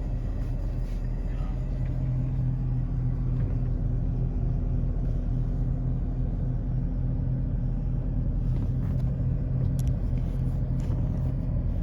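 Four-cylinder engine of a 2001 Chevy S10 pickup idling, a steady low hum heard from inside the cab.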